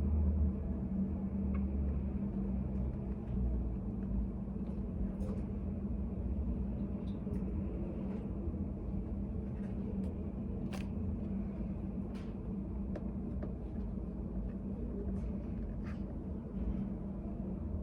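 Study cafe ambience: a steady low rumble with faint, scattered light clicks and taps.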